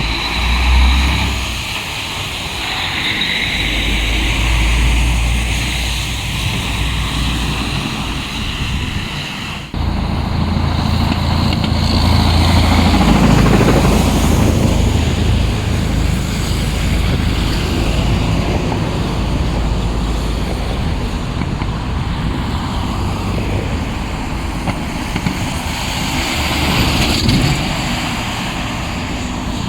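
Heavy diesel dump trucks running and driving past in street traffic, with an abrupt change about ten seconds in and a rising engine swell a few seconds later.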